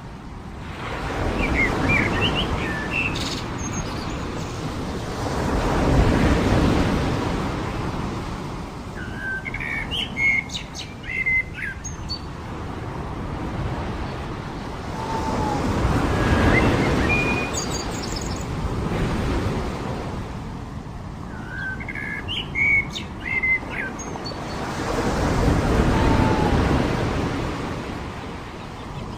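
Waves breaking on a beach, swelling and fading three times about ten seconds apart. Between the swells small birds chirp in quick bursts, with a few short falling whistled notes.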